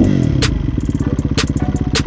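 Kawasaki KX250 dirt bike engine running while ridden, its revs dropping briefly right at the start, with a few sharp clicks over it.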